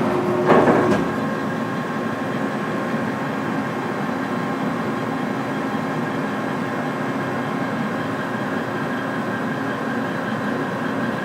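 Mori Seiki SL-8 CNC lathe running under power: a steady mechanical hum with a few constant whining tones, after a brief clunk about half a second in.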